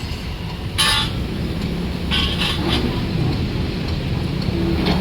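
Steady low engine rumble of passing vehicles and heavy machinery, with a few short hissing bursts: one about a second in, a cluster between two and three seconds, and one near the end.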